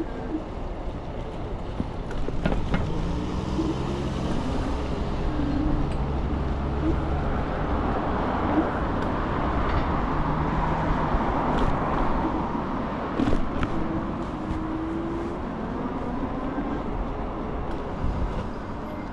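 Riding noise from an electric scooter moving through city traffic: a steady rush of wind and road noise that swells towards the middle, with a low wavering hum from motors.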